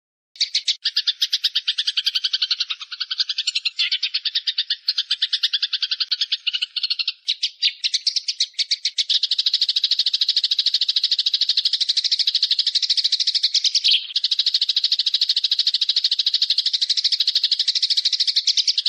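Recorded bird calls used as a training track: a fast, rattling trill of rapidly repeated notes, loud and continuous, uneven for the first several seconds and then steadier and denser from about halfway in, with a brief break near the end.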